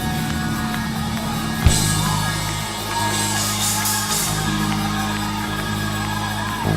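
Church band music with drums, bass and guitar: steady bass notes shifting every second or so, a sharp drum hit about 1.7 s in and a cymbal wash a couple of seconds later.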